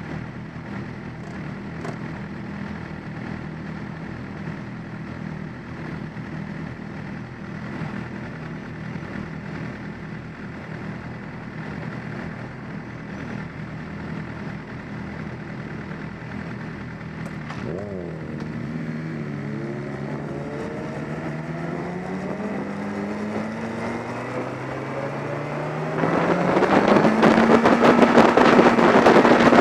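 Motorcycle engine running steadily, then about 17 seconds in the revs dip and climb steadily as the bike accelerates. Near the end the sound gets louder with heavy wind rush on the helmet-mounted microphone.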